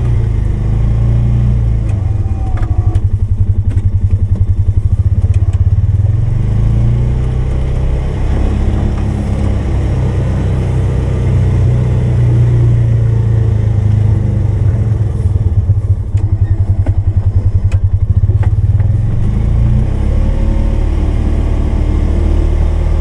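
Polaris 570's single-cylinder engine running while plowing snow, rising twice for a few seconds at a time as the machine pushes, with a few light knocks.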